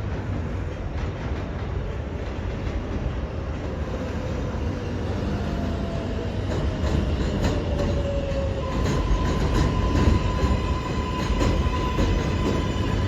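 R188 subway train running through the station, with a steady rumble and repeated wheel clicks over rail joints that grow louder toward the middle. A slowly falling whine gives way about nine seconds in to a steady high-pitched whine or wheel squeal.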